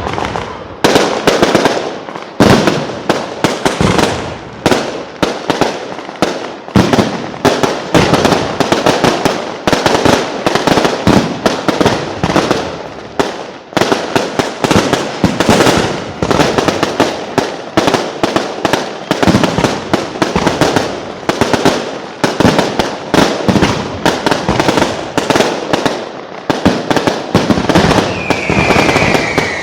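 Fireworks going off in a dense, continuous barrage of bangs and crackling reports, several a second with no pause, with a falling whistle near the end.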